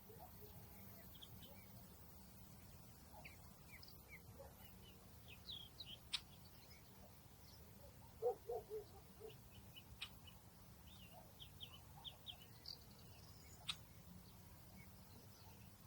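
Faint outdoor nature ambience: small birds giving scattered short chirps, with a few sharp clicks and a quick run of lower notes about halfway through, over a low steady background.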